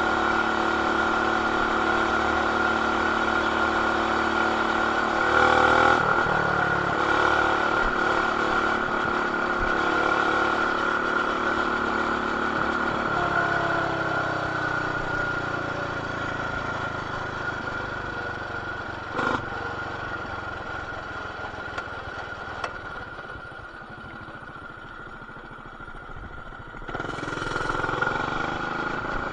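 BT200X mini bike's small single-cylinder engine with a stage 1 kit and RLV exhaust, running steadily under throttle while riding, heard muffled through a camera's plastic case. About halfway through it eases off and slows, then picks up again near the end, with a single knock in between.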